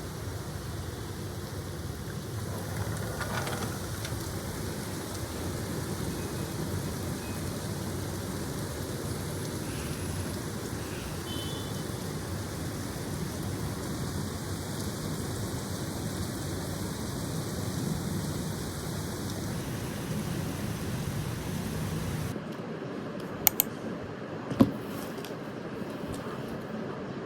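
Steady rushing noise, even across the range with no distinct tones. About 22 seconds in it cuts to a quieter background with a few sharp clicks and two louder knocks.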